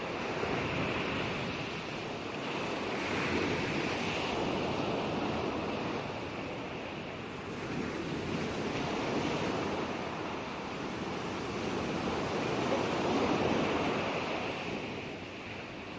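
Ocean waves washing onto a shore in a continuous rush of surf that swells and eases every few seconds.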